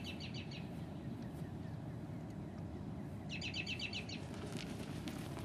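A songbird singing a fast trill of evenly repeated chirps, heard at the start and again about three seconds in, over a steady low outdoor background noise.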